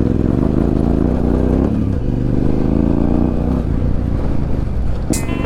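Yamaha Ténéré 700 motorcycle's parallel-twin engine running while being ridden, its note changing a couple of seconds in.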